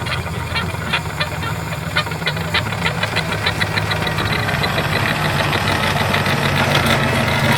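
A small motor running steadily, with a rapid rattle of sharp clicks that gets denser about three seconds in.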